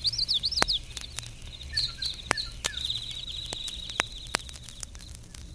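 Birdsong sound effect: quick warbling chirps in the first second, a short twitter about two seconds in, then a fast trill that stops at about four seconds. Clicks and pops from the vinyl record's surface are scattered throughout.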